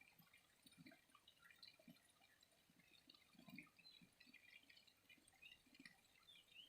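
Faint water trickling and dripping in irregular soft plops, with small high bird chirps scattered over it and one rising chirp near the end.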